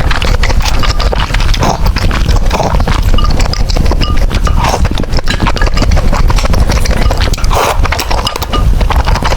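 Close-miked chewing and slurping of noodles: a dense run of wet mouth clicks and smacks, with a few short slurps among them.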